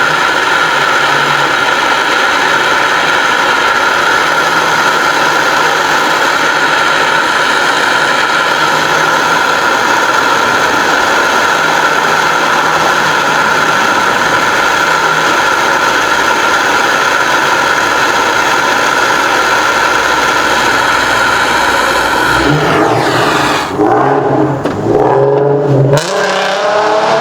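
A car engine with a loud exhaust held at steady high revs for about twenty seconds. The revs then fall away and the sound turns uneven near the end.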